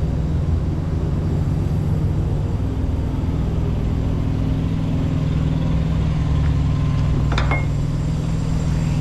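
Vehicle engine idling steadily, with a single short click about seven and a half seconds in.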